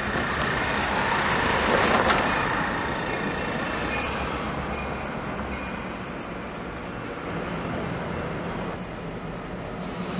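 Train on a short-line railroad branch rumbling steadily close by, with a thin steady high whine that fades out about four seconds in and a brief swell of louder noise about two seconds in.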